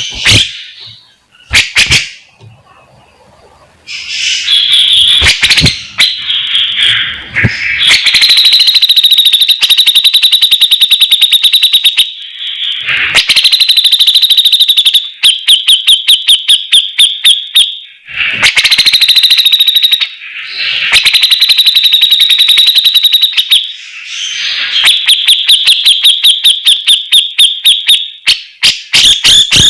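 A songbird singing loud, rapid trills, phrase after phrase with short breaks between them. It is a masteran, a bird-song recording played to tutor caged songbirds.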